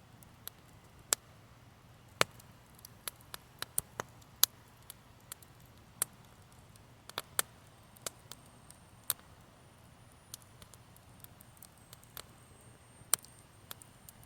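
Wood campfire crackling: irregular sharp pops and snaps of burning wood, some much louder than others, over a low steady background.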